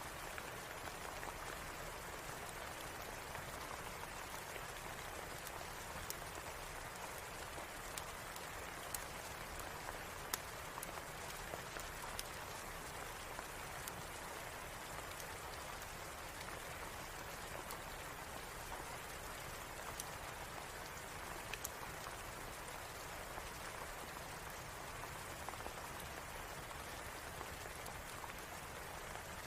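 Steady rain falling, with scattered sharp clicks.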